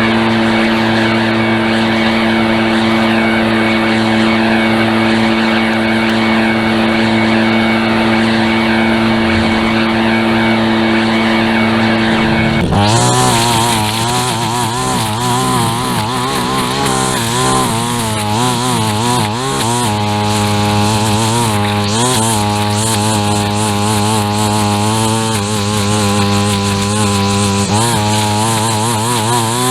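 Small gas engine of a handheld lawn tool running at a steady pitch, then about thirteen seconds in it goes under load: a hiss of cutting joins in and the engine pitch wavers up and down.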